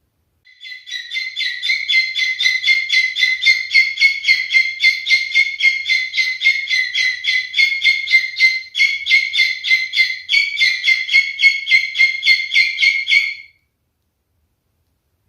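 Pied cockatiel calling in a long, rapid run of identical short chirping notes, about three to four a second, which stops abruptly near the end.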